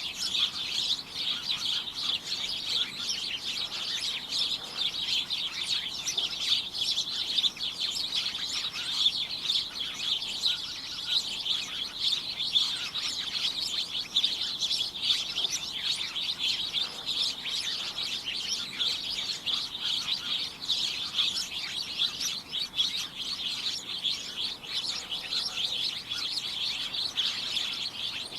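A flock of small birds chirping all at once, a dense, unbroken chatter of short high chirps.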